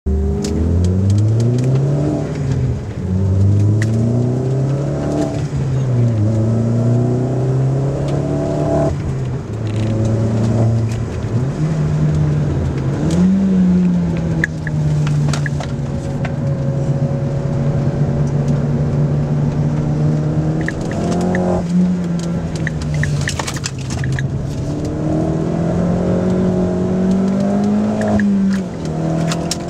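Opel Corsa OPC's 1.6-litre turbocharged four-cylinder engine under hard acceleration, heard from inside the cabin. The engine note climbs and drops back several times in the first ten seconds as the driver shifts up through the gears, then runs at a steadier pitch with some rises and falls through the corners, over road and tyre noise and a few light rattles.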